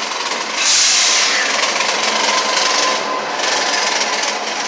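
CSX diesel freight locomotives rolling slowly past at close range, engines running and steel wheels grinding and scraping on the rails, with a faint thin squeal. A sudden loud hiss comes about a second in.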